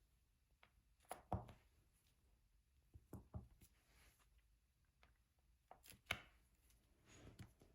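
Soft taps and clicks of a diamond-painting pen picking up resin drills and pressing them onto the sticky canvas, in small clusters of taps every second and a half to two seconds.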